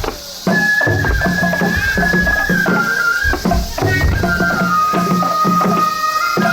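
Japanese festival music for a shishimai lion dance: a bamboo flute holding long notes that step down in pitch over quick, steady drumming. The drums drop out briefly at the start.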